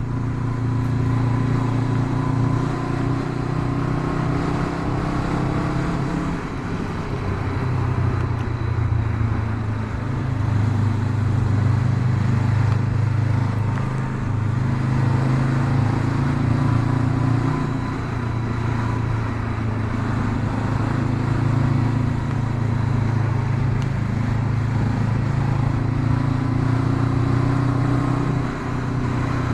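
Honda CB500X's 471 cc parallel-twin engine running steadily under way, its pitch rising and falling gently with the throttle.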